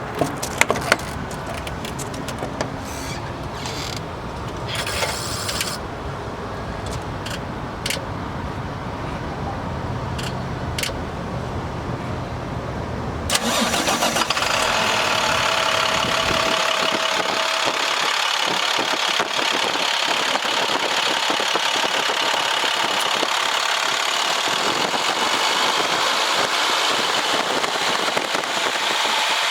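The International 7400 truck's diesel engine is running. In the first half, clicks and knocks sit over a low rumble. About halfway through, a sudden, louder, steady hissing rush starts and keeps going to the end.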